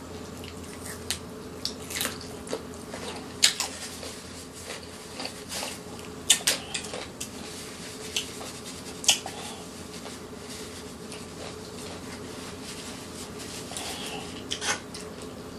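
Scattered sharp clicks and light taps, from objects being handled at a table, over a steady low hum. The strongest clicks come about three and a half, six, nine and fifteen seconds in.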